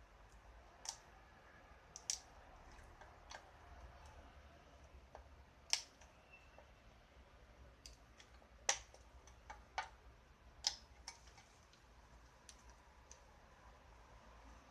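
Irregular sharp clicks and light taps, about a dozen, spaced unevenly a second or more apart: small hard parts being handled.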